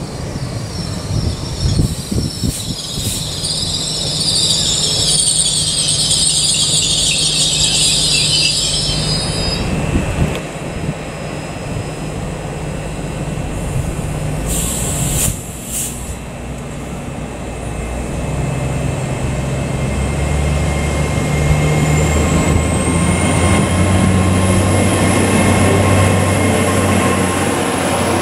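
A GWR Class 802 bi-mode train on diesel power squeals loudly as it slows to a stop over the first ten seconds. There is a brief hiss about halfway through. The train then pulls away, with its engine note building and a high-pitched whine that rises and then holds steady.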